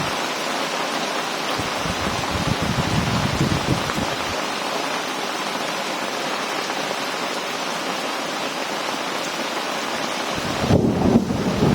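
Heavy rain pouring down in a steady hiss, with low thunder rumbling about two seconds in and rolling in louder near the end.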